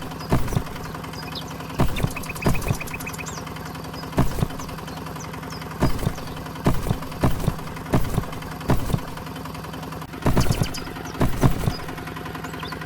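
A motor runs with a steady hum, broken by irregular sharp knocks and clatters every half second to two seconds, with a cluster of knocks about ten seconds in.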